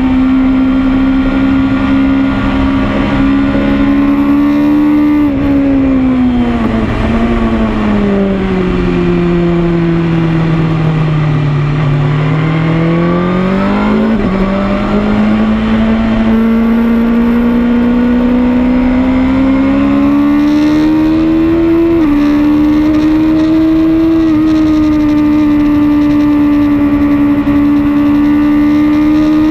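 BMW S1000RR inline-four engine heard onboard at speed, with wind rush. The engine note holds steady for about five seconds, falls slowly for about seven, then climbs again with small breaks along the way.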